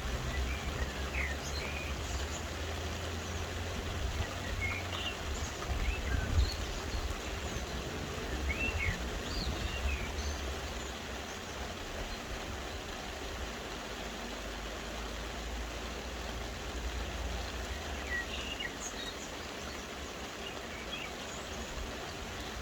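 Soft rain falling steadily, with small birds chirping now and then over it and a low rumble underneath.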